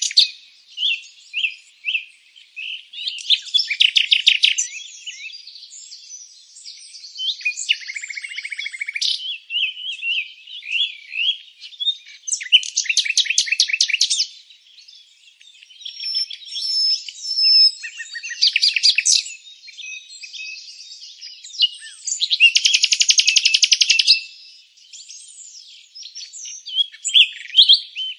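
Songbirds chirping and singing: every few seconds a fast trill of rapidly repeated notes, with shorter high chirps and whistles in between.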